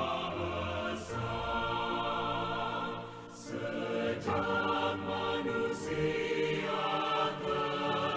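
A choir singing a song with music, holding long notes that change every second or so.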